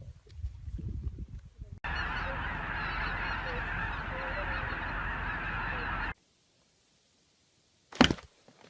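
A dense clamour of many overlapping animal calls lasting about four seconds, starting and cutting off abruptly, followed by a brief sharp sound near the end.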